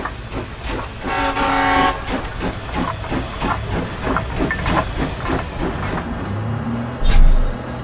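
Toy-train sound effect: a short whistle blast, then the steady clickety-clack of wheels on rail joints at about four clicks a second, with a loud low thump near the end.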